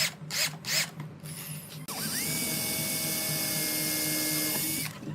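A power drill spins up about two seconds in, runs at a steady pitch for about three seconds, then stops suddenly. Before it come a few short, evenly spaced strokes.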